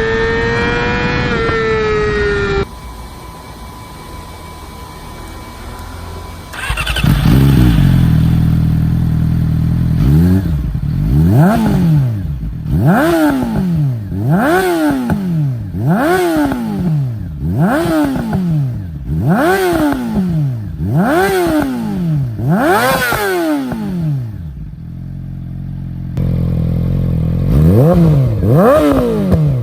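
A Yamaha R6's inline-four, breathing through an Akrapovic full exhaust, starts about seven seconds in and settles to idle. It is then blipped about every second and a half, the revs rising and falling sharply, before dropping back and revving again near the end. Before it starts, a wavering pitched tone sounds for the first couple of seconds.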